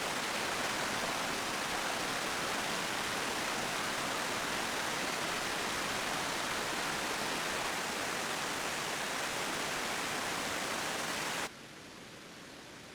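Steady rushing of water, an even dense hiss without any distinct drops or strokes, which cuts off abruptly about eleven and a half seconds in, leaving a much fainter hiss.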